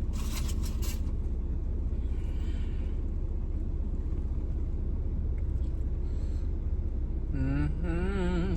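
Steady low rumble, like a car idling with the cabin closed, with a short crinkling of packaging in the first second as a hot sauce packet is opened, and a brief hummed vocal sound near the end.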